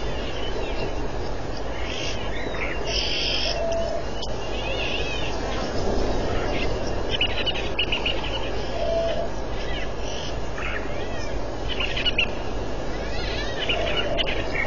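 Birds chirping and trilling in scattered short calls, with a short, low, single-pitched hoot heard three times, about five seconds apart, over a steady background hiss.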